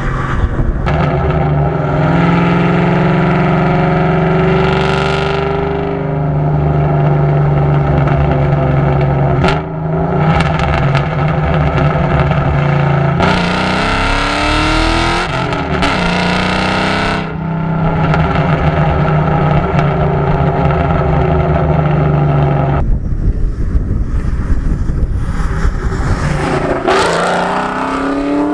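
Ford Mustang GT's cammed 4.6-litre two-valve V8 (PI heads, Comp Cams 262 camshafts) running loud through SLP Loudmouth exhaust as the car drives: it holds a steady drone, climbs in revs in the middle, eases off, and climbs again near the end.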